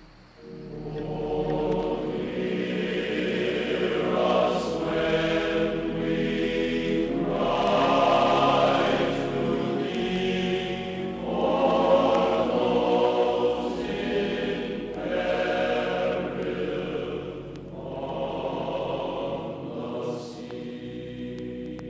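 Choral music: sustained voices singing slow phrases that swell and fade every three to four seconds.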